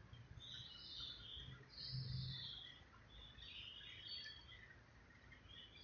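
Faint background: scattered chirps of birds over a low room noise.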